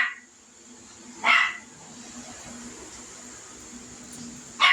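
A parrot barking like a dog: one short bark right at the start and another about a second and a half in, then a low steady hum until a quick run of barks starts again at the very end.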